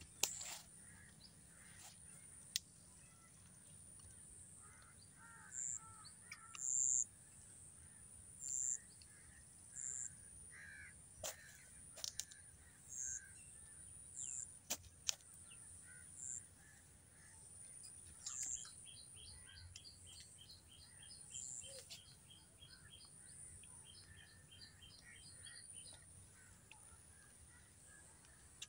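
Birds calling outdoors: short high-pitched chirps repeating every second or so, with a quick run of ticking notes for several seconds past the middle. A few sharp clicks are scattered through it.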